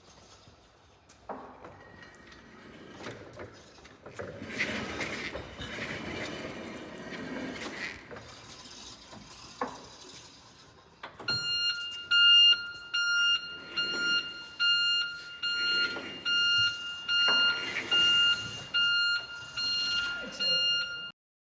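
Electric forklift's warning beeper sounding a steady series of loud beeps, about one a second, over the truck's running noise. Before the beeping, for about the first ten seconds, there is quieter mechanical whirring with a few knocks.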